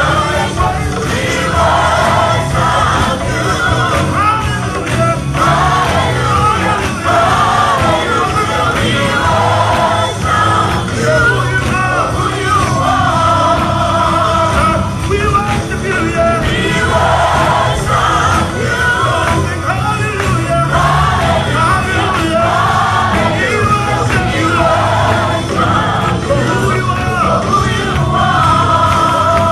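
Live gospel music: several voices singing over band accompaniment, continuous and loud.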